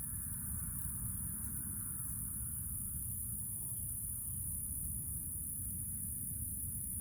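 Steady high-pitched trill of crickets over a low, even rumble.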